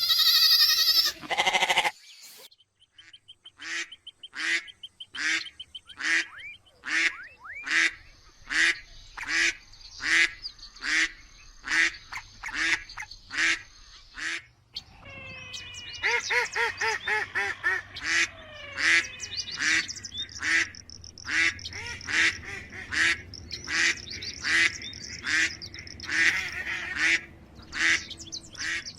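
Ducks quacking over and over in short calls, about two a second, busier and louder in the second half. A loud animal call ends about two seconds in.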